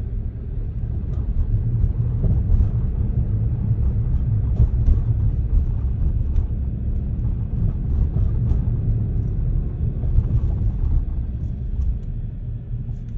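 Car running with a steady low rumble, with faint irregular clicks every second or two. These are the abnormal noise from the rear of the vehicle that is being recorded.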